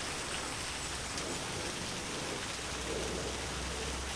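Steady hiss of light rain falling, with a faint low rumble coming in about halfway through.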